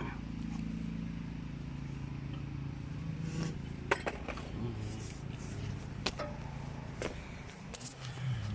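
A few sharp metallic clicks and knocks from exhaust parts and clamps being handled, over a steady low engine-like hum that fades near the end.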